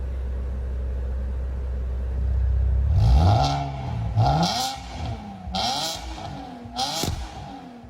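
Porsche Panamera 970 with an Armytrix cat-back valvetronic exhaust idling steadily, then revved in four quick throttle blips, each rising and dropping back, starting about three seconds in.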